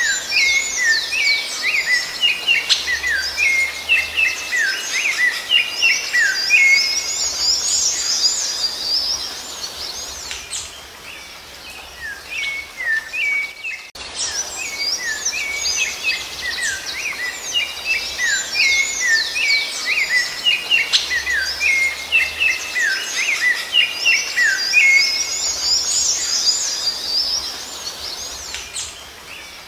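Songbirds singing a dense run of quick chirps, trills and rising whistles, easing into a short lull before the same passage of song plays again, as in a looped recording.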